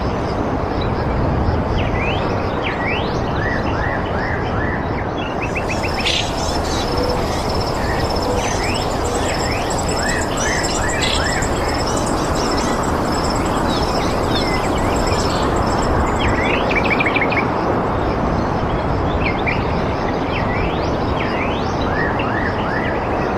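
Small birds chirping and calling over a steady rushing background noise. A high, thin, pulsing trill joins them for several seconds in the middle.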